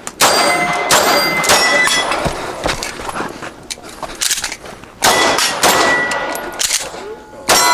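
Pistol shots fired at steel targets, each hit followed by the ringing of the steel plates; a quick run of shots, a lull of a few seconds, then more shots near the end.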